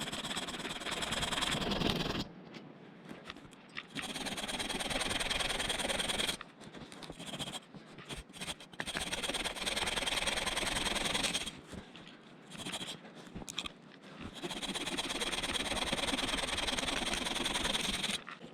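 Hand saw cutting through a dry, dead spruce trunk: rasping back-and-forth strokes in four bouts of a few seconds each, with short pauses between.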